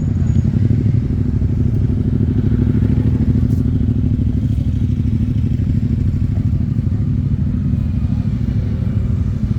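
Motorcycle engine idling steadily, a low, even pulsing of firing strokes with no revving.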